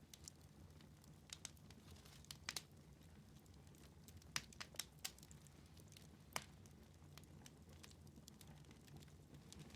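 Wood fire in a fireplace crackling quietly, with scattered sharp pops, the loudest about four and a half to six and a half seconds in, over a low steady hum.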